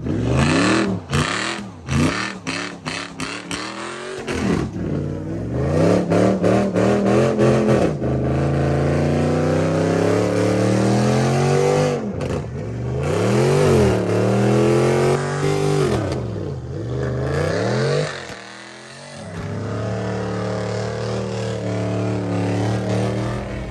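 Car engine revving hard, with quick blips and a rapid stutter in the first few seconds. It then holds at high revs, swinging up and down in pitch, drops away briefly near the end and settles into a steadier run.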